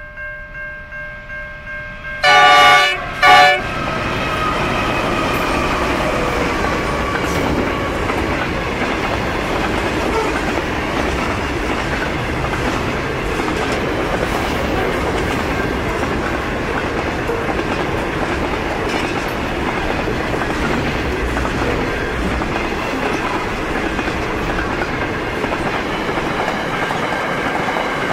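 Level crossing bells ringing. About two seconds in, the lead NR-class diesel locomotive sounds its horn twice, a long blast and then a short one. After that the locomotives and a long freight train roll past with a steady rumble and the clickety-clack of wagon wheels.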